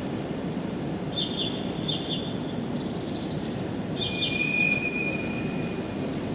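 Songbird chirping in short repeated phrases, each a thin high note followed by a quick double chirp, heard three times; about four seconds in, a steady whistled note is held for nearly two seconds. A steady low background rumble runs underneath.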